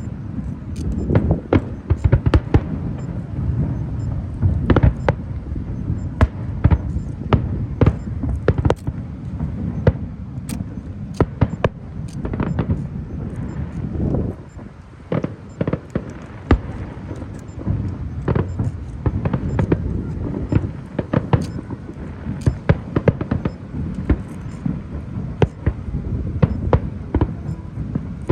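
Fireworks bursting in a rapid barrage: many sharp bangs and crackles over a continuous low rumble, easing briefly about halfway through before picking up again.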